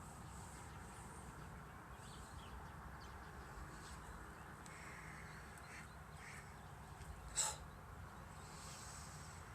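A short, harsh bird call rings out once, loud against a faint outdoor background, about seven seconds in. A few faint short calls come just before it.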